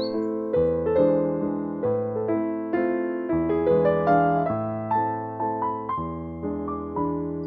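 Slow, gentle piano music: notes and chords struck about twice a second, each ringing and fading, over deeper bass notes that change every second or two.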